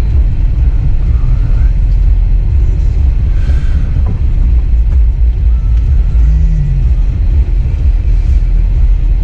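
Steady, heavy low rumble of a truck's engine and drivetrain while driving through snow ruts.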